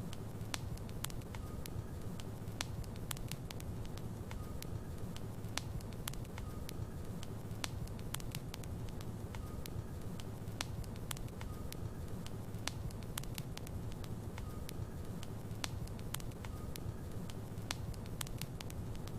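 Logs burning in a fireplace: a steady low rumble of flames with frequent sharp, irregular crackles and pops.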